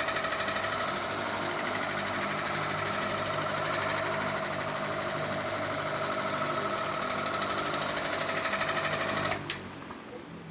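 Ceiling fan running noisily: a steady whine over a fast, even rattle. It cuts off suddenly with a click about nine seconds in, and what is left fades away.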